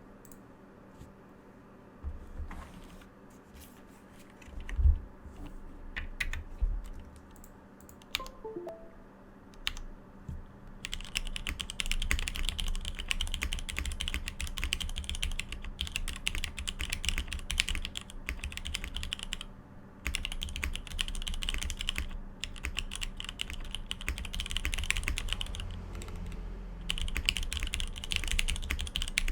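Matrix 2.0add mechanical keyboard with lubed retooled Cherry MX Black linear switches and GMK keycaps being typed on. It starts with a few separate keystrokes and one heavier thump, then goes into steady fast typing about a third of the way in, with a couple of brief pauses.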